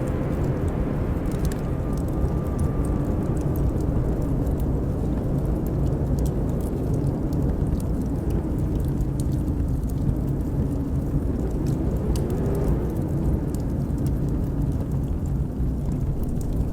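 Blizzard wind blowing steadily with a deep rumble and a faint howl that wavers in pitch, while a wood fire crackles with scattered sharp pops.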